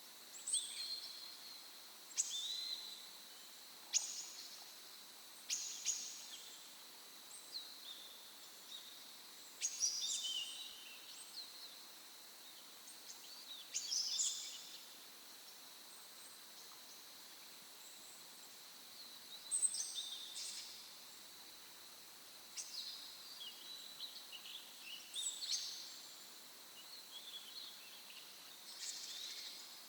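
Songbirds singing in short, high-pitched phrases that recur every couple of seconds, over a faint steady hiss.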